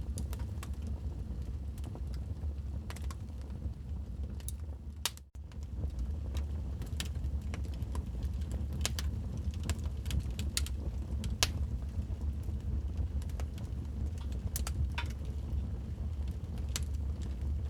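Wood fire crackling in a fireplace: irregular sharp pops and snaps over a steady low rumble of the flames. The sound dips out for a moment about five seconds in.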